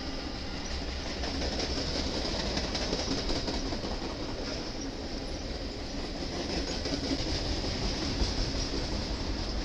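Freight train of loaded flatcars rolling past, with a steady noise of wheels running over the rails.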